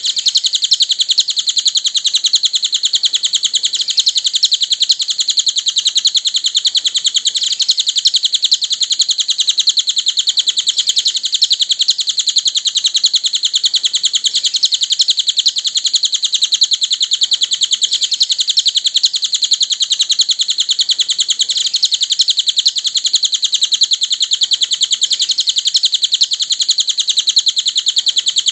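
Cililin bird singing: a loud, unbroken, high-pitched rapid chirping trill with no pauses, as played in a masteran song-training recording.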